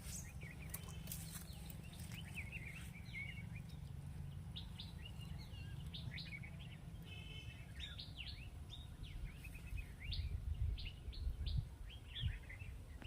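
Small birds chirping with many short, quick calls and rapid trills. A low rumble underneath grows stronger and gustier near the end.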